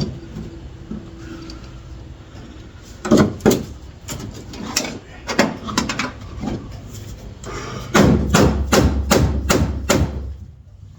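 Hammer blows on the car's sheet-metal floor pan, working loose an old patch repair: a few spaced strikes, then a quicker run of about eight strikes over two seconds near the end.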